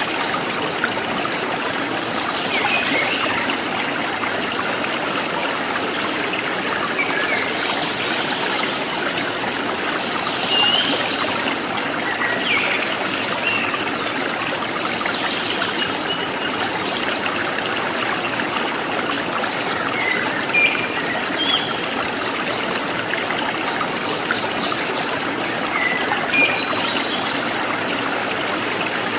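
Forest stream trickling and splashing steadily, with wild birds giving short chirps now and then.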